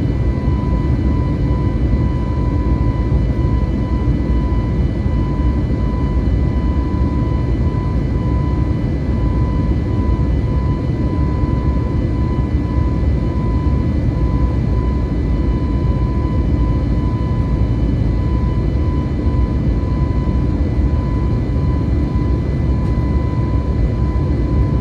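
Steady cabin noise inside an Airbus A320neo in flight: a deep, even rumble of airflow and its CFM LEAP-1A turbofans, with a thin steady whine on top.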